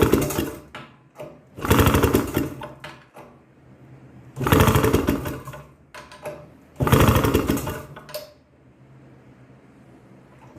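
1962 Harley-Davidson Topper's two-stroke single-cylinder engine cranked over four times, each crank about a second of fast chuffing pulses, without firing: a no-start.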